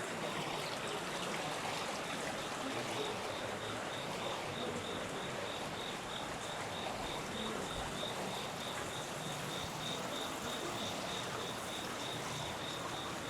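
Steady rush of flowing water, with an insect chirping in a high, even pulse of about four chirps a second over it.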